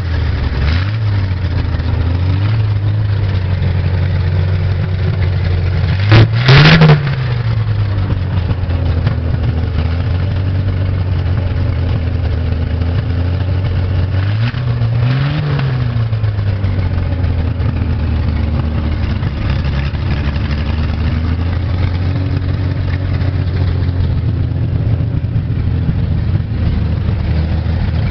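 Chevrolet 250 cubic-inch straight-six engine idling steadily just after starting, blipped up once sharply and loudly about six seconds in and once more gently about fifteen seconds in, each rev falling back to idle.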